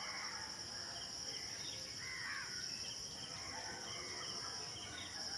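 Background insect chorus, a steady high-pitched drone, with birds chirping now and then.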